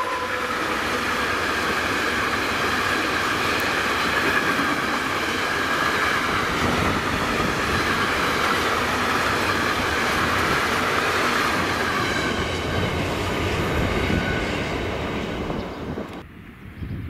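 A train passing close by: loud, steady running noise from wheels on rail with a few high, steady whining tones over it. It fades near the end and cuts off abruptly about 16 seconds in.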